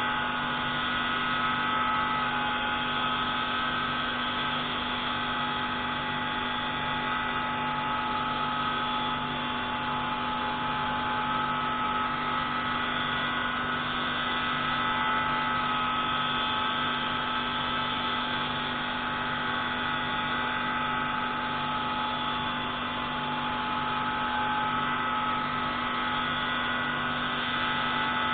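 Pneumatic grinding tool running steadily with a constant whine while grinding the intake valve of a MaK 601C marine engine.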